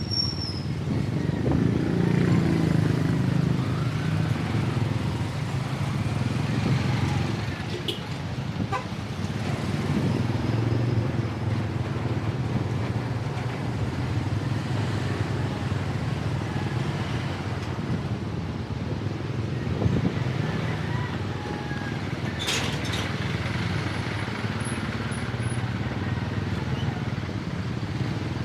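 Road traffic, with motorcycle and car engines running close by and swelling and fading as they pass. A couple of short sharp clicks and brief high squeaks break through.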